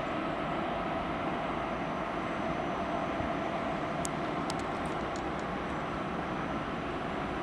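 ICE high-speed train rolling into the station along the platform: a steady rumble and rush of wheels on the rails, with a few faint, high ticks about four to five and a half seconds in.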